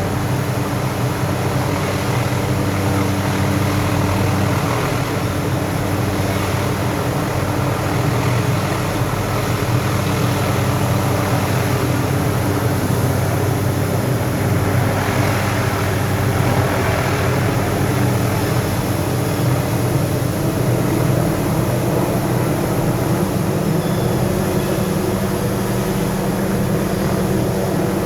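Steady engine drone with a constant low hum and an even noise over it, unbroken throughout.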